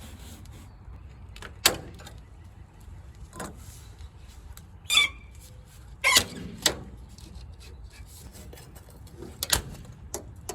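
Soft aluminium window trim being pried and slid off a vehicle body: several separate sharp clicks and knocks, one about five seconds in with a brief squeak of metal.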